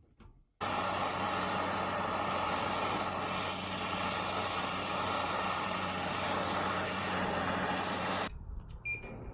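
Brazing torch flame hissing steadily while refrigerant line joints are brazed under a nitrogen purge; the hiss starts abruptly about half a second in and cuts off near the end.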